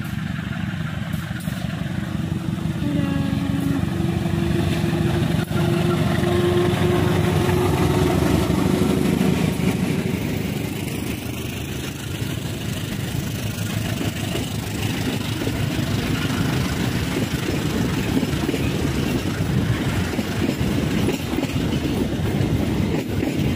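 A CC 203 diesel-electric locomotive runs past hauling a parcel train, with a steady tone held for several seconds as it comes close. Then the train's cars roll by, their wheels clattering over the rail joints in an even rhythm.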